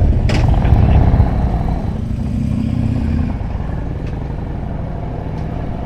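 Motorcycle engine running while riding, loudest for about the first second and then easing off to a steadier, lower level.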